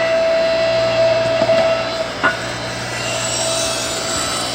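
Small household hydraulic log splitter running with a steady hum and a higher whine. The whine fades about two seconds in, followed by a single short crack, typical of the log giving way.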